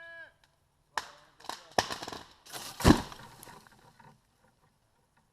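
A held pitched tone cuts off at the start, then comes a short run of sharp knocks and clatters lasting about three seconds, the loudest about three seconds in.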